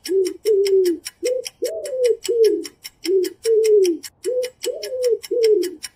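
Pigeon cooing: a quick run of short coos, about two a second, each rising and falling in pitch, over a fast, even ticking.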